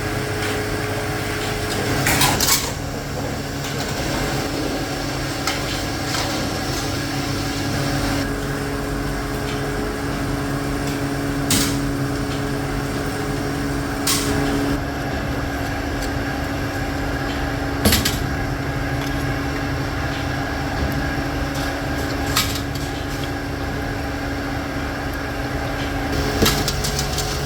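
Factory machinery running with a steady hum, with sharp clanks every few seconds, about six in all.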